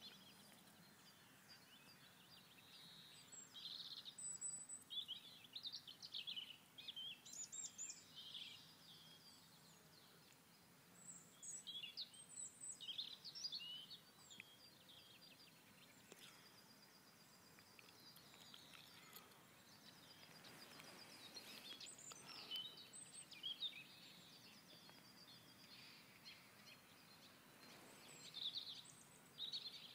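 Faint birdsong: small birds give bursts of short, high chirps and trills every few seconds over a soft background hiss.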